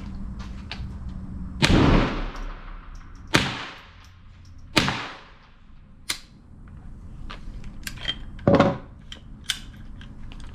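Four irregularly spaced .22 LR shots from an AR-15 pistol fitted with a CMMG .22 LR conversion kit, each with a fading echo, and lighter clicks of the rifle being handled between the last shots.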